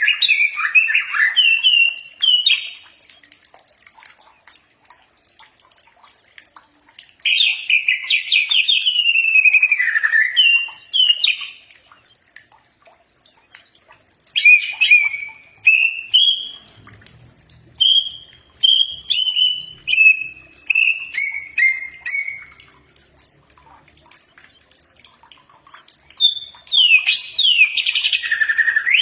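Cucak ijo (green leafbird) singing: four bursts of quick, varied whistled phrases with pauses of a few seconds between them. The third burst, in the middle, is a run of notes stepping down in pitch.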